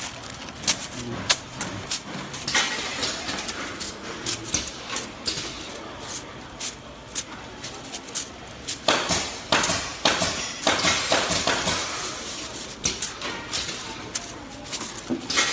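Automatic chopstick and satay-skewer packing machine at work: irregular sharp clicks and knocks of its mechanism and the bamboo sticks, busier for a couple of seconds past the middle.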